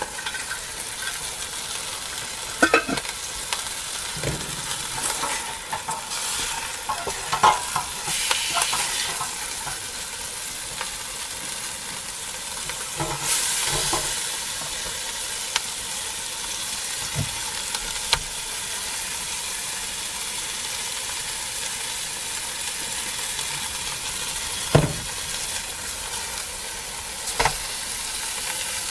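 Food sizzling steadily in a small stainless steel pot over a camp stove, with a few short metal clinks of the lid and a spatula against the pot.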